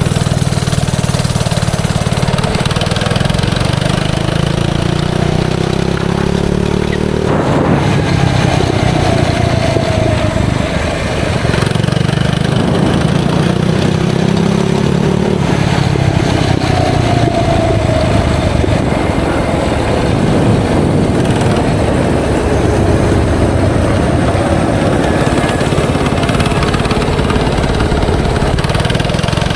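FRP GMB100 minibike's 99cc single-cylinder four-stroke engine running through an aftermarket header pipe and dirt-bike slip-on muffler while being ridden. It revs up and eases off several times, the pitch climbing for a few seconds and then dropping.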